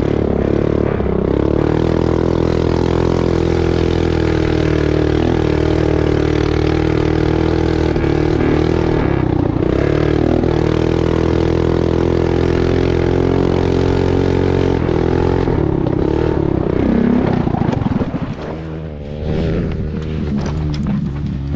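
Mini bike's small single-cylinder engine running at high, steady revs, easing off briefly about nine seconds in. Near the end it drops in revs and rises and falls with the throttle.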